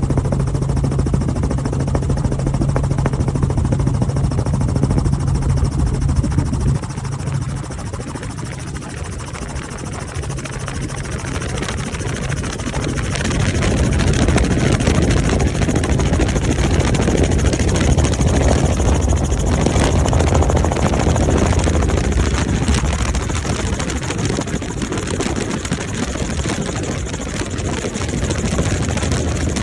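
Helicopter running in flight, a steady dense drone of turbine and rotor noise. It eases off about seven seconds in and builds louder again from about twelve seconds.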